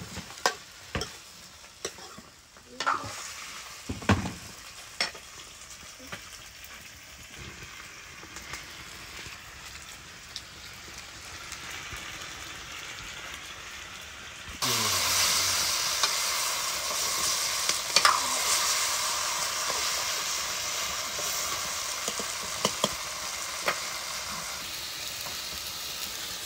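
Fish curry sizzling in a wok over a wood fire. In the first half a ladle knocks and scrapes against the pan over a quiet sizzle. About halfway through, a much louder, steady sizzle sets in and carries on.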